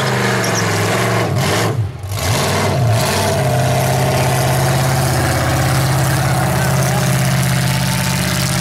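V8 engine of a Mazda truck revving hard during a burnout; the revs dip and wobble briefly about two seconds in, then are held steady and loud for the rest.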